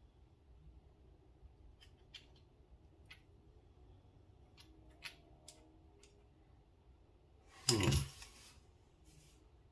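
Small tools and parts of a pocket knife being handled during reassembly: a scatter of light, sharp clicks and taps. About eight seconds in comes one brief, louder rush of noise.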